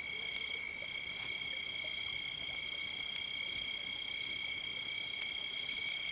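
Steady, unbroken high-pitched night chorus of calling animals, with a few faint clicks.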